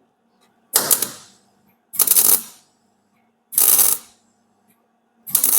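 Welding arc crackling in four short bursts of about half a second each, roughly every one and a half seconds: quick tack welds on a steel bulkhead repair section, just enough to hold it in place.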